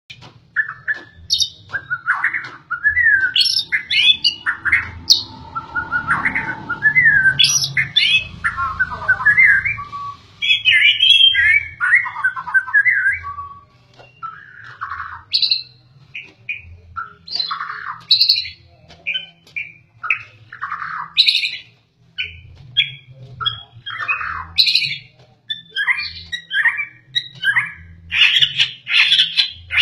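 White-rumped shama singing a long, varied song: quick whistled and chattering phrases, one after another, with brief pauses between them.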